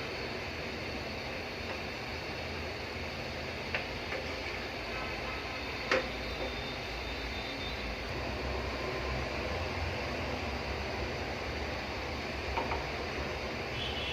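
A pot of rice in water heating on the stove gives a steady rushing hiss. A few light clinks come through it, the loudest about six seconds in.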